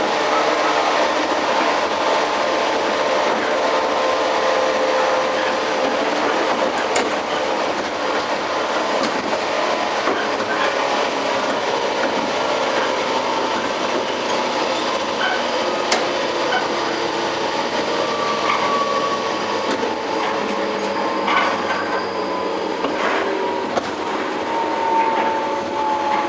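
Running noise heard aboard a JR 115-series electric multiple unit motor car: the steady whine of its MT54 traction motors over rumbling wheels, with scattered clicks of wheels crossing rail joints. Near the end the motor whine drops in pitch as the train slows.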